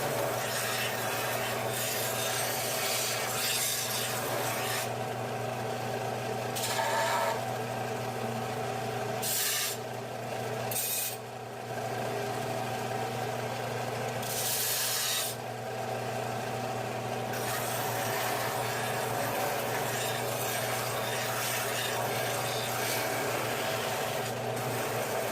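Hand file rasping along the cut edge of a sheet-steel patch piece, deburring it in repeated strokes over a steady hum.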